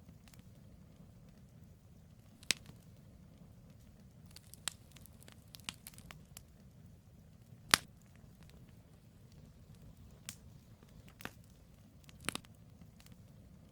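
Wood campfire burning: the logs give sharp crackles and pops, scattered a second or two apart, with the loudest pop about eight seconds in. Under them runs a low, steady rumble.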